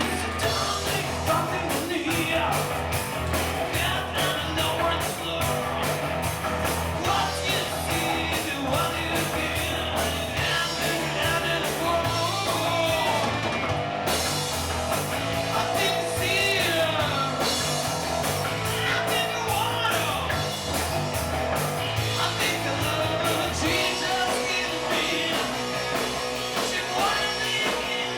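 Rock band playing live, electric guitar to the fore over bass and drums, with bent, gliding guitar notes in the middle.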